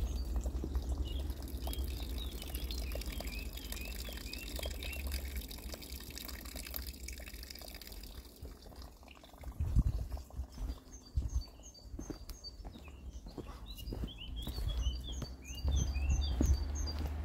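Small songbirds chirping in quick series of short, high notes, in two spells with a lull between them. There is a steady low rumble underneath, and a few dull thumps about ten seconds in.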